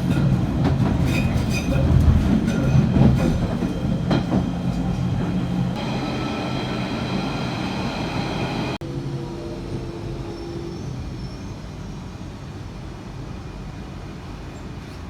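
London Underground Central line train (1992 tube stock) pulling into the platform, its wheels clattering and squealing. About nine seconds in the sound cuts to a quieter, steady train rumble.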